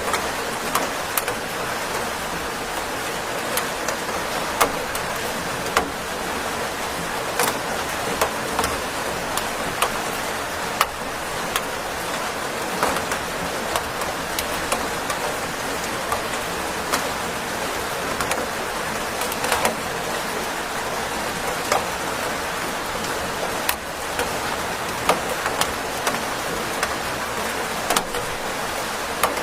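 Steady rain falling, an even hiss with many sharp drips and drop impacts scattered through it.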